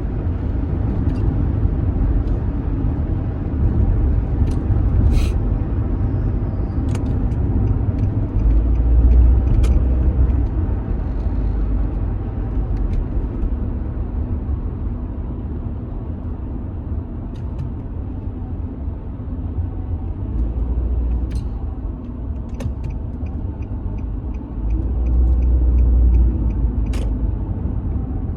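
Road noise heard from inside a moving car: a steady low rumble of engine and tyres that swells louder twice, with a few faint ticks.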